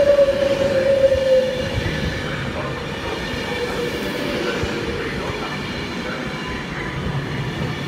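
Virgin Trains Class 390 Pendolino electric train drawing into the platform. Its whine slides slightly down in pitch and fades over the first second or so as it slows, leaving a steady rumble of the train.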